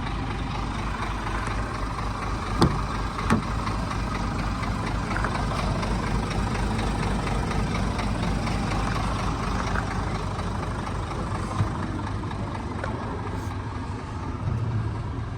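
Scania R500 truck's diesel engine idling steadily, with two sharp clicks about two and a half and three seconds in and another near the end.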